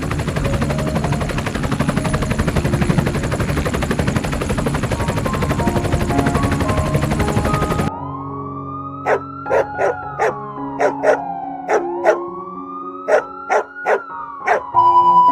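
Loud, fast, rhythmic noise like a helicopter rotor over background music for about eight seconds. Then a siren-like wail rises and falls twice, with short dog barks around it.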